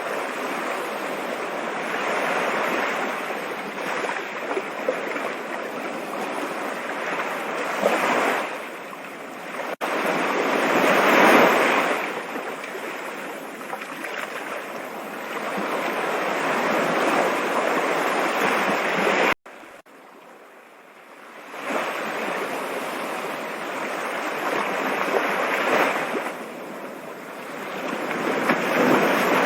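Rushing water of a stream, a steady hiss that swells and eases every few seconds. About two-thirds of the way in, the sound cuts off abruptly at an edit seam, comes back quieter and builds up again over a couple of seconds.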